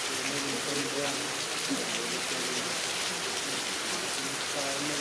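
Heavy rain falling steadily on surfaces, a dense even hiss.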